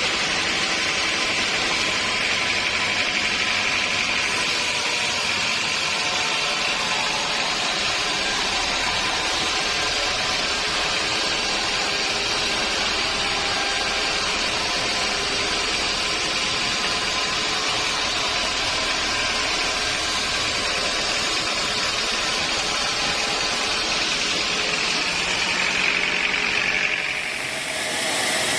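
Sawmill saw running steadily: a constant machine drone with a high whine over it, which shifts abruptly near the end.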